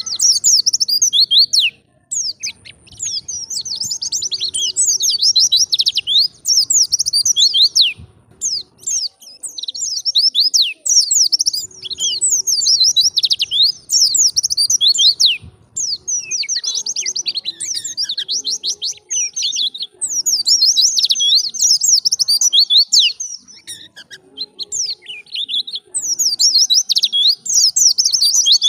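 White-eye (pleci) singing a fast, high-pitched warbling song of rapid chirps and sweeps. It comes in long phrases of several seconds, with brief pauses between them.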